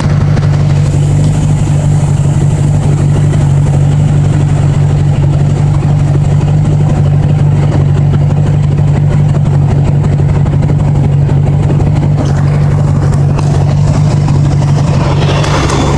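1980s Honda Gold Wing motorcycle engine running at a steady, unchanging pitch. A brighter, noisier sound builds near the end.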